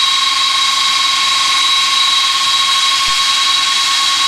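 Jet aircraft turbofan engines whining steadily at low taxi power, a loud even hiss with high steady whining tones.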